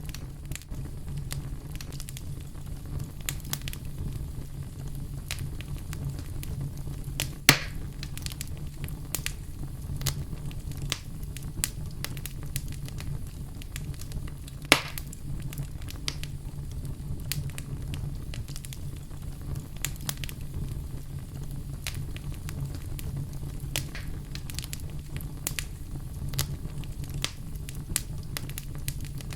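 Fire crackling in a fireplace: a steady low rumble under constant small crackles, with two louder pops about seven and fifteen seconds in.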